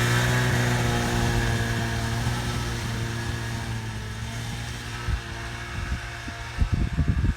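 Ski-Doo Formula Plus snowmobile engine running at a steady, even pitch and slowly growing quieter. Near the end there is a cluster of knocks and bumps.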